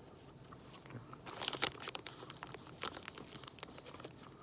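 Faint crinkling of a plastic granola bar wrapper being handled, in scattered short rustles.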